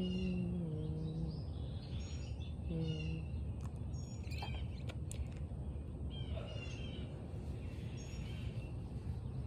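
Small birds chirping in short repeated phrases over a steady low background rumble. A low pitched hum sounds over the first second or so and briefly again about three seconds in, and a couple of faint clicks fall near the middle.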